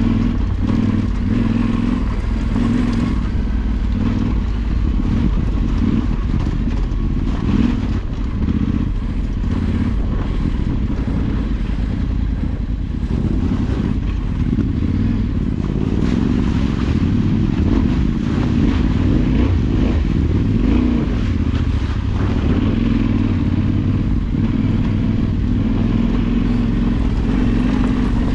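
Motorcycle engine running continuously as the bike is ridden, its revs rising and falling.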